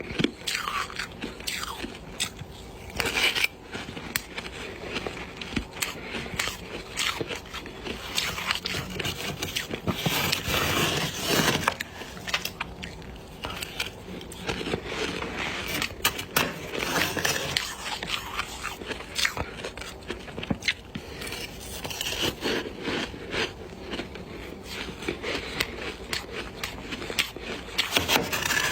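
Ice being bitten and chewed close to the microphone: irregular crunching with many sharp cracks and crackles, busiest about ten to twelve seconds in.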